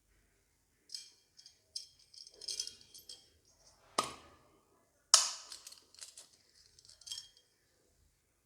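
Small toy kitchen pieces and their plastic packaging being handled: a run of light clicks, clinks and crinkling, with two sharper knocks about four and five seconds in.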